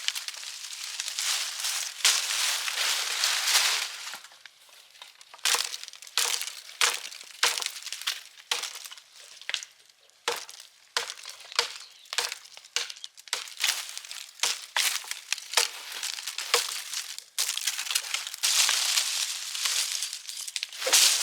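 Crunching, cracking and clinking of debris being broken up and handled: many short sharp strokes mixed with stretches of scraping noise.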